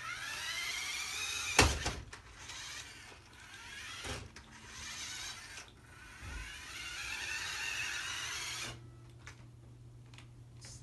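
Toy radio-controlled monster truck's electric motor whining, rising in pitch as it speeds up, with a sharp knock about one and a half seconds in and a couple of duller thumps after. The whine rises and falls and stops a couple of seconds before the end.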